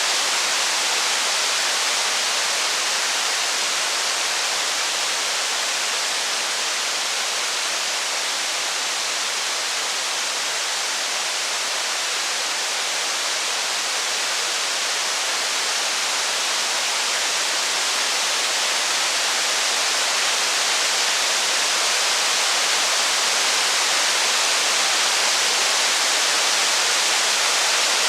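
Heavy rain falling steadily, an even hiss without separate drops standing out.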